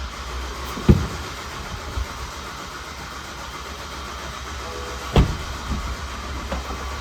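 A car engine running steadily with a low hum, with two sharp knocks about one second and five seconds in.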